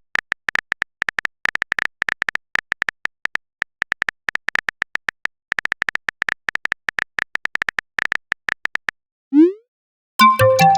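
Phone-keyboard typing sound effect: rapid, irregular light clicks for most of the stretch. Near the end comes a quick rising whoosh, the message-sent sound, and then a short chiming notification tone.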